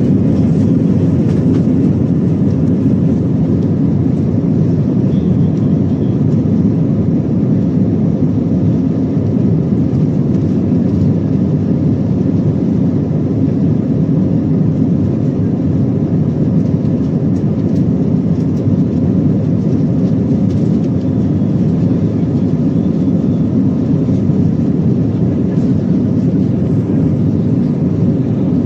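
Steady low rumble of an Airbus A320's engines and rushing air inside the passenger cabin, with a faint steady whine over it.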